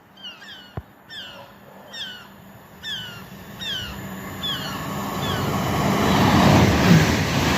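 A bird calls over and over, a short falling note about once a second, while a rushing noise grows steadily louder in the second half as a train approaches the station.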